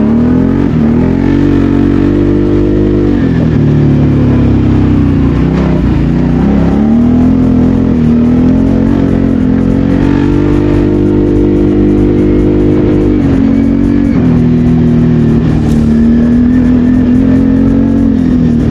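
BRP Can-Am Outlander 650 quad's V-twin engine running under load, its pitch rising and falling as the throttle is worked, with a few sudden drops and climbs in engine speed.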